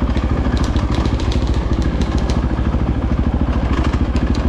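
Dirt bike engine running steadily at an even pace, with scattered light clicks and clatter over it.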